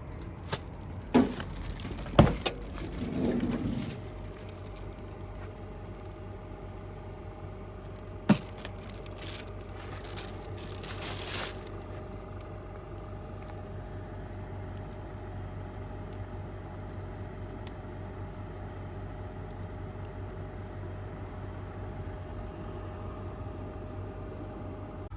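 Things being handled: a few sharp clicks and knocks, jangling and rustling during the first dozen seconds, over a steady machine hum with a faint constant whine that carries on alone afterwards.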